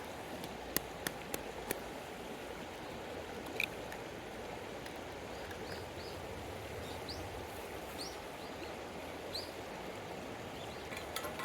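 River water flowing steadily, a continuous rushing noise. A few sharp clicks come in the first couple of seconds and once more near the middle, and several short high chirps come in the second half.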